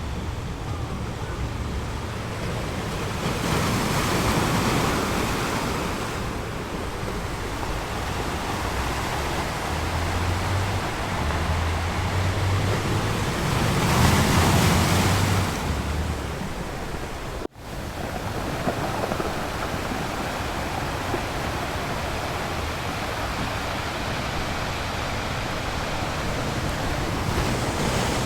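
Ocean surf washing onto a shore: a continuous rush of waves that swells twice, about four seconds in and again around fourteen seconds in. There is a momentary cut in the sound a little past halfway.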